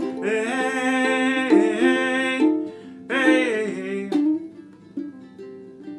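Ukulele blues: ukulele picking under a wordless lead line that bends in pitch, played in two phrases, the second falling away about four seconds in.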